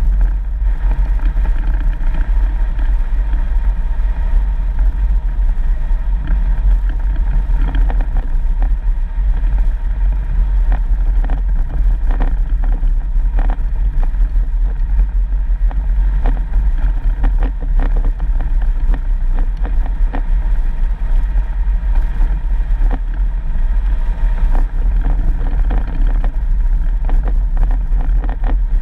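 4x4 vehicle driving on a dirt road: steady engine and road rumble, with scattered knocks and rattles from bumps in the track.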